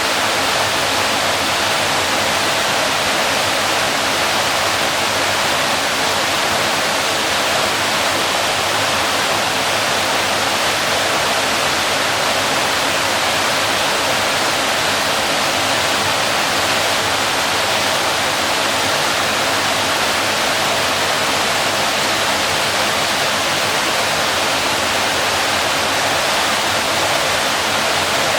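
Waterfall: a constant rush of falling water, even and unbroken, with most of its energy in the hiss above the low end.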